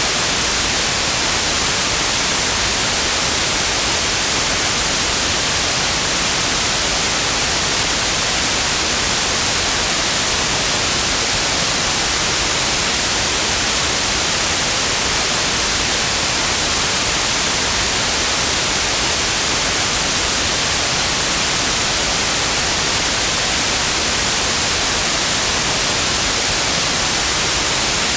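Steady, unchanging white noise: an even hiss across the whole range, brightest in the high end.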